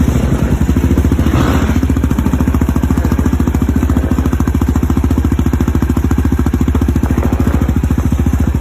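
Quad bike (ATV) engine running steadily with even firing pulses, with a brief swell of noise about one and a half seconds in.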